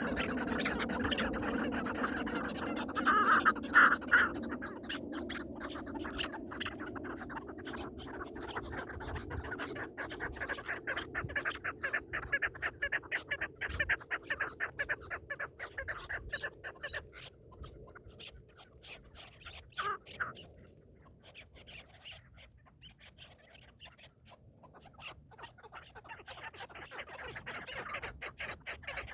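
Partridges calling in a rapid run of clucking notes, quieter for a stretch after about two-thirds of the way through and picking up again near the end.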